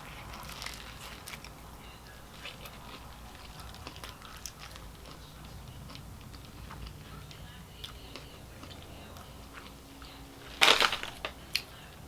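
Close-up chewing and crunching of a crispy fried chicken sandwich, with small wet mouth clicks. About ten and a half seconds in comes a short, much louder burst of crunching noise, followed by a few smaller ones.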